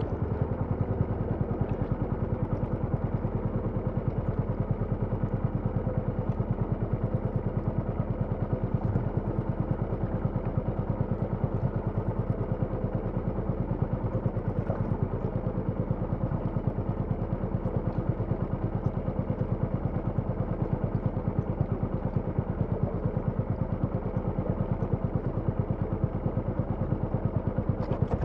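Small engine running steadily at a constant speed, with a fast, even pulsing beat.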